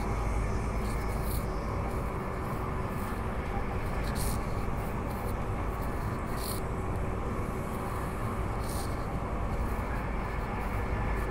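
Transperth B-series electric multiple-unit train running at speed, heard from inside the carriage: a steady rumble of wheels on rail with a faint electrical hum. Brief, faint high ticks come every two or three seconds.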